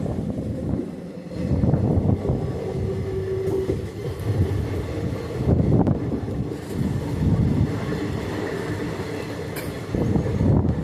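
Passenger train running along the track, heard from on board: a steady rumble of wheels and coaches that swells and eases, with a brief thin squeal about three seconds in.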